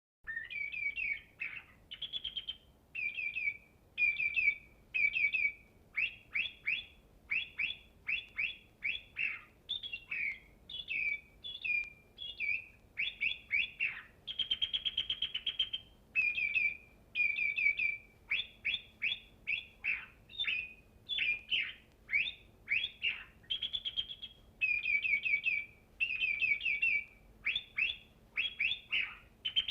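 A songbird calling and singing in a steady run of short, high chirps and whistled notes, broken by a few longer buzzy trills, one lasting about two seconds midway through.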